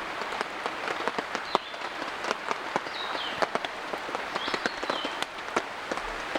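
Rain falling steadily, with many sharp drops pattering close by. A bird calls three times with a short call that steps down in pitch.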